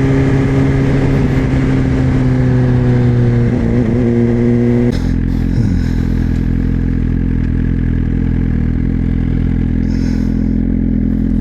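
Suzuki GSX-R1000 inline-four running through a LeoVince slip-on exhaust, holding a fairly steady engine speed. About five seconds in, the note drops abruptly to a lower, steady run.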